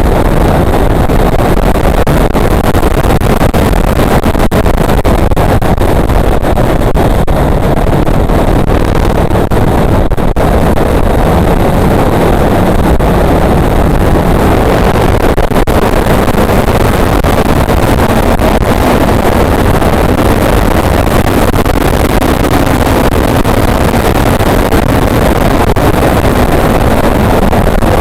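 Motorcycle on the move: engine running under heavy wind buffeting on the microphone, loud and steady.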